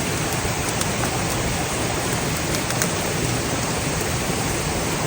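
Steady rushing of a mountain stream, with a few faint ticks now and then.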